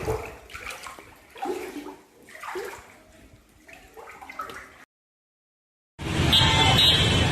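Floodwater splashing and gushing in surges about once a second, with faint voices. It cuts off about five seconds in, and after a second of silence a loud, dense noise comes in.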